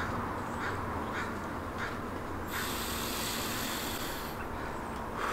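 Quiet outdoor ambience with a bird calling three times in short, evenly spaced calls in the first two seconds, then a soft high hiss for nearly two seconds in the middle.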